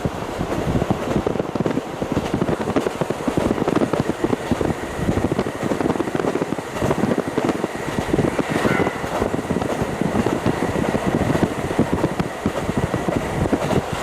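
KiHa 40 diesel railcar under way, heard through a fully open window: its diesel engine running and a steady rush of wheel-on-rail noise and wind. A faint thin high tone runs through most of it.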